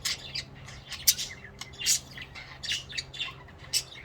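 Budgerigars chattering, a rapid run of short, sharp, high chirps and squawks, several a second.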